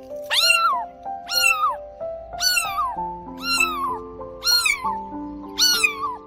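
Domestic cat meowing six times, about once a second, each meow falling in pitch. Background music with long held notes plays underneath.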